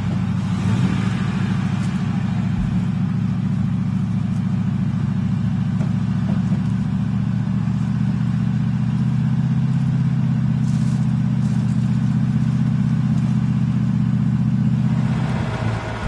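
Land Rover engine running steadily at a fast idle, a constant low drone that drops away near the end.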